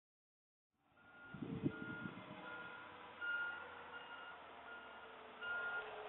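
Garbage truck's reversing alarm beeping steadily, about one beep every 0.8 seconds, starting after a short silence about a second in. A brief heavy thump sounds about a second and a half in.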